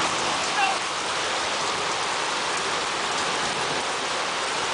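Heavy rain pouring down steadily during a storm.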